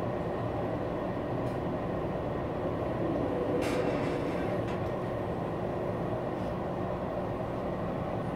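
Train running on the rails: a steady rumble, with a brief hiss about three and a half seconds in.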